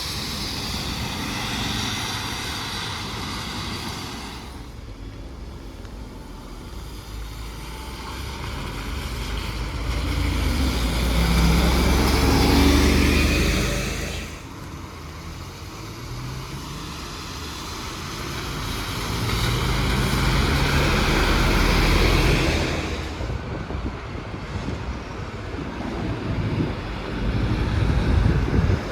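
Two large road vehicles pass one after the other, each a swell of low engine rumble and road noise that builds, peaks and then drops off quickly, over steady background traffic.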